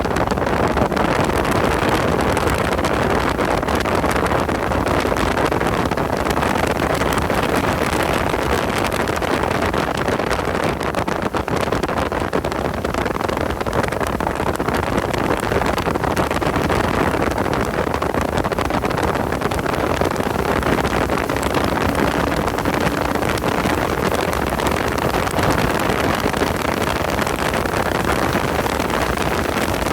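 Car driving at speed, its engine and road noise mixed with wind buffeting the microphone, steady throughout.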